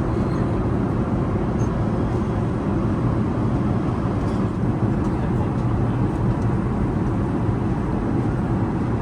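Airbus A380 cabin noise: a steady low rumble and rush of air, unchanging throughout.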